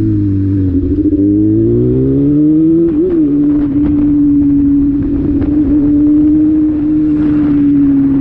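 Honda Hornet's inline-four engine running loud under way: the revs dip and climb again over the first three seconds, then hold a steady high note.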